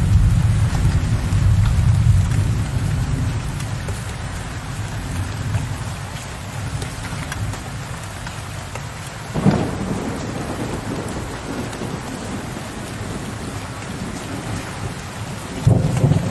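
Steady rain with thunder. A low rolling rumble fades away over the first few seconds, a sudden thunderclap comes about halfway through, and another loud rumble starts just before the end.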